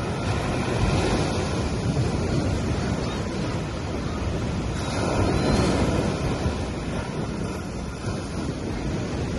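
Ocean waves washing onto a beach, a steady rush of surf that swells about a second in and again about five seconds in.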